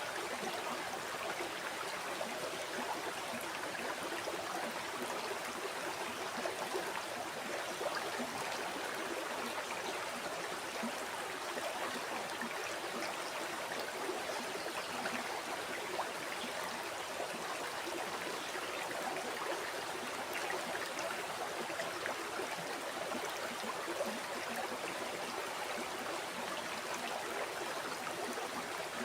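Flowing river or stream water running steadily over rocks, a continuous rushing with fine babbling and gurgling detail.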